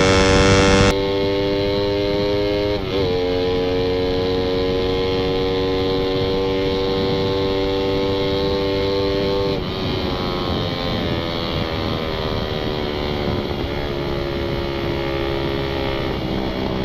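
Suzuki Satria FU 150's single-cylinder four-stroke engine running hard at high revs through a hollowed-out stock muffler, its note climbing slowly with a brief break about three seconds in. Near ten seconds the throttle comes off and the pitch and level drop.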